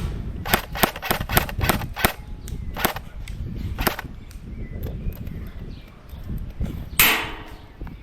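Airsoft guns firing: a run of about six sharp cracks in quick succession, then two more spaced about a second apart. About seven seconds in comes a single louder burst of noise that tails off over half a second.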